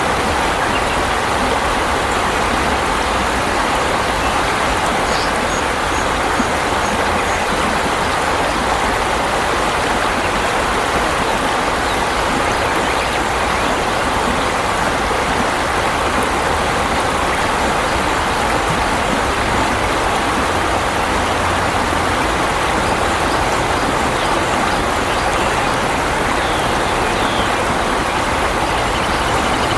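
Steady rush of flowing water, like a stream or a small weir, with an even level throughout. A faint series of short high peeps comes about five seconds in.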